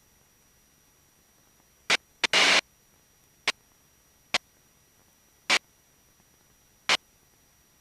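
Short crackles of static over a near-silent background: six sharp bursts, irregularly spaced, the longest lasting about a third of a second around two and a half seconds in.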